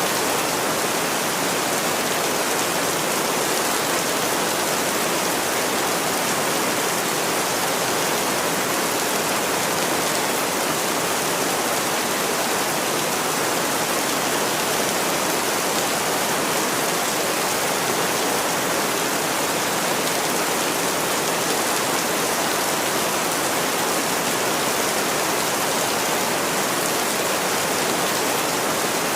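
Steady rainfall, an even hiss with no distinct drops, thunder or changes.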